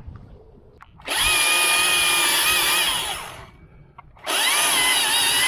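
Chainsaw run at high revs in two bursts of about two seconds each, about a second in and again near the end, its pitch sagging as each burst eases off.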